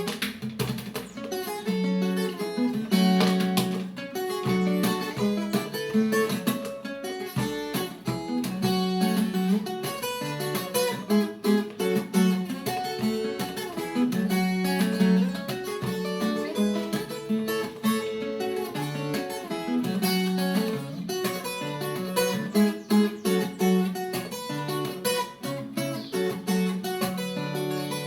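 Viola caipira, the Brazilian ten-string guitar, played solo: plucked and strummed melody with chords.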